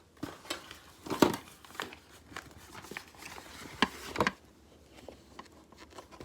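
Small objects being handled and stuffed into a bag: irregular clicks, knocks and crinkling, with the loudest knocks about a second in and again around four seconds in.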